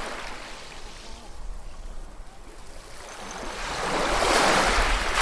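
Ocean waves on a shore, with a low wash and gurgle at first. A wave then swells from about three seconds in and breaks, loudest near the end.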